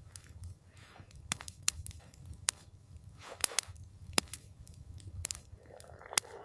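Wood campfire crackling: irregular sharp pops and snaps, about a dozen, over a low steady rumble.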